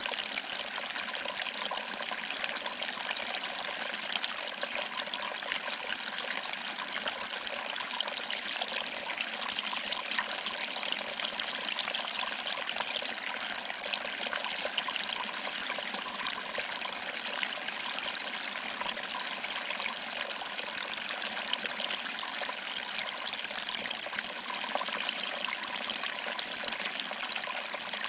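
Small waterfall: water trickling over rocks and splashing into a small pool below, a steady, unbroken rush of water.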